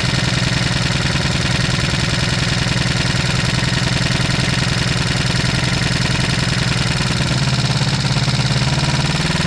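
1973 Honda CB350's air-cooled parallel-twin engine running steadily with an even low pulse on its first start after 18 years standing, rising slightly about three-quarters of the way through.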